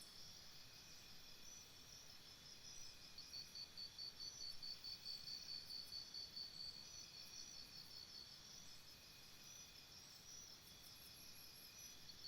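Faint jungle ambience of insects chirping in several layers of high, repeating calls, the loudest a pulsing chirp about three times a second that swells in the middle and fades toward the end.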